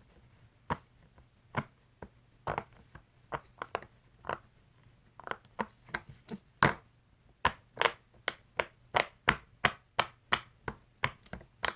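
A fidget toy being clicked over and over: sharp separate clicks, spaced out at first, then about three a second in the second half.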